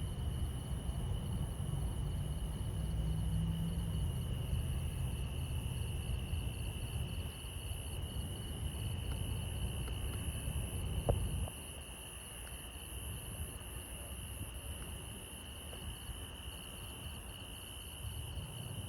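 A steady chorus of insects chirping, crickets among them, over a low rumble. The rumble stops after a short knock a little past halfway.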